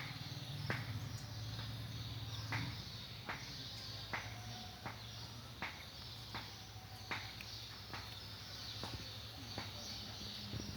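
Steady high-pitched insect chirring, with a sharp tick repeating about every three-quarters of a second and a low steady hum underneath.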